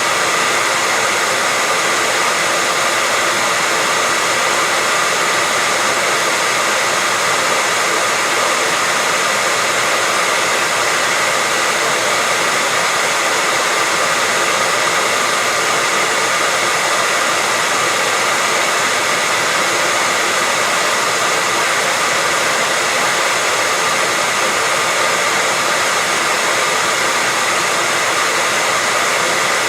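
Hand-held hair dryer running steadily: an even hiss of blown air with a steady motor whine.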